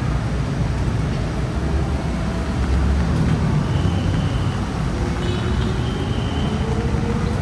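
Busy road traffic: a steady rumble of passing cars and buses, with one engine note rising slowly near the end.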